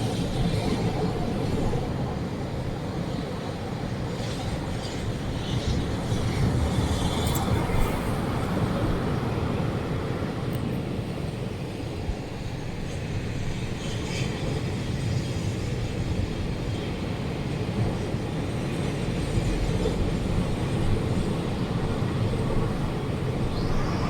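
Strong storm wind making a steady low rumble, with a few faint ticks and rattles above it.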